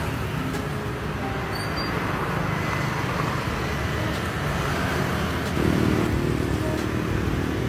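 Street traffic with motor vehicle engines running and passing, one vehicle coming louder about five and a half seconds in.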